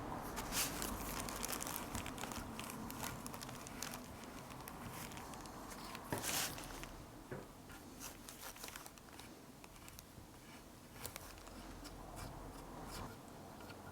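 Faint scrapes, rustles and small clicks of hand work: gesso putty being pressed and smoothed into the frame's missing edges with a small tool. There is a louder scrape about six seconds in.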